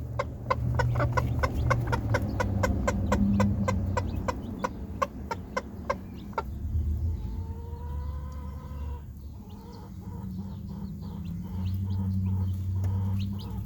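Newly hatched chicks peeping rapidly, about four short high peeps a second, over a broody hen's low, continuous clucking. The peeping thins out after about six seconds, and the hen gives one longer drawn-out call around the middle.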